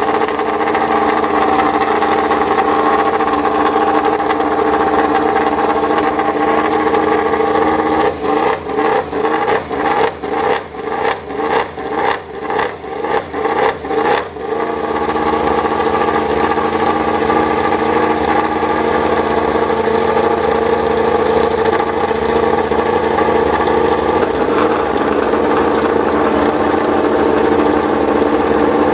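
Yamaha MotoGP racing motorcycle's inline-four engine running at a steady high idle after a start. About a third of the way in it is revved in a quick series of about a dozen throttle blips, roughly two a second, then settles back to a steady idle.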